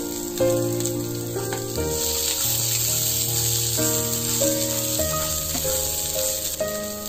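Sliced onions and peanuts sizzling as they fry in oil in a nonstick pan, stirred with a spatula. Background music of held chords plays over it, changing about every second or so.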